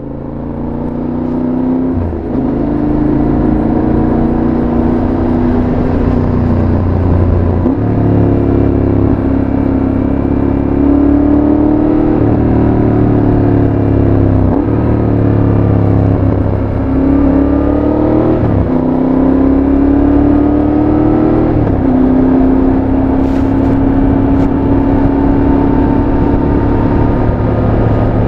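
Yamaha Tracer 7's 689 cc parallel-twin running loud through a full GPR exhaust with its dB-killer fitted, under way on the road. The engine note climbs steadily and then drops back at each shift, about seven times.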